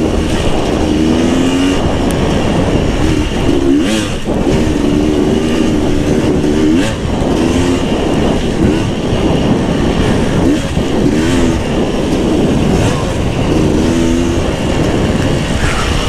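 Beta 300 RR two-stroke single-cylinder enduro motorcycle being ridden, its engine pitch rising and falling over and over as the throttle is worked on and off. A few sharp knocks cut through, most clearly about four and seven seconds in.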